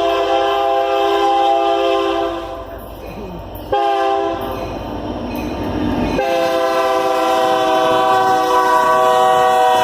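Locomotive air horn blowing long, loud blasts: one dies away about 2.5 s in, another begins near 4 s and shifts about 6 s in, then holds. It is the train's warning for the road crossing.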